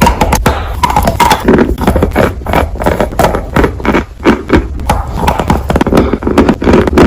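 Close-miked crunchy chewing: dense, sharp crackles over a steady rhythmic chomp, about three chews a second.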